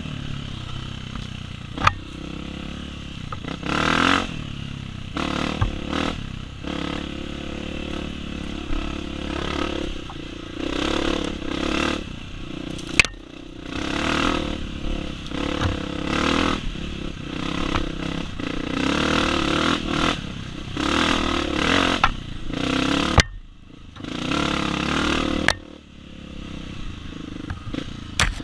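Honda CRF250F dirt bike's single-cylinder four-stroke engine revving up and down as the throttle is opened and closed over a trail, with clattering and knocks from the bike over rough ground. The engine briefly drops away about three quarters of the way through.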